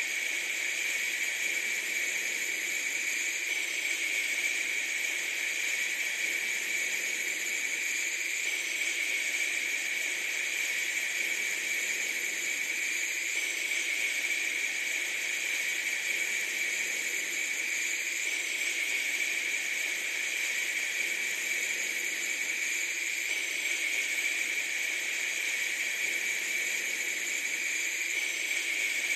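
A steady, unchanging hiss, brightest in the upper middle, with no rhythm, tone or break.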